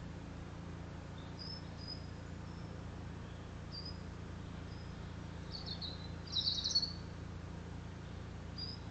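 Small songbird giving short, high chirps every second or two, with a louder flurry of rapid chirps about six to seven seconds in. A steady low hum runs underneath.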